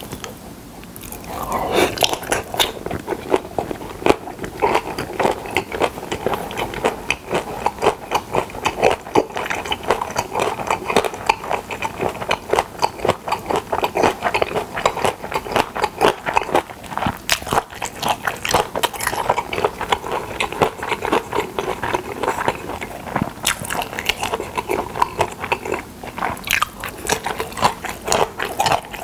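Close-miked chewing of a mouthful of pressed pork (pyeonyuk) with seasoned dried radish strips (mumallaengi): a dense, continuous run of crunching and wet clicking bites, starting about a second in.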